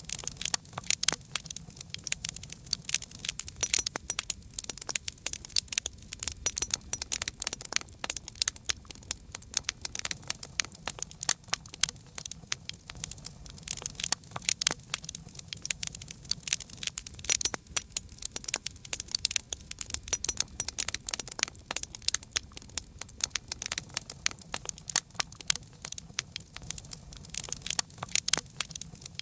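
Wood fire crackling, with dense irregular pops and snaps of burning wood over a low, steady rumble of the flames.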